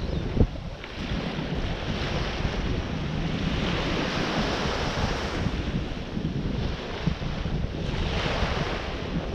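Ocean surf washing in and out, with wind buffeting the microphone in a steady low rumble. There is a brief thump about half a second in.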